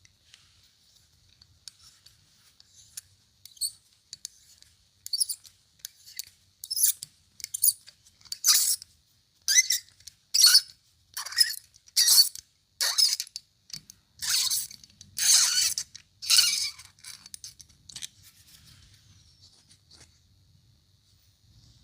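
Pressurised spray hissing in about a dozen short bursts, one after another, while a scooter carburetor is being cleaned out.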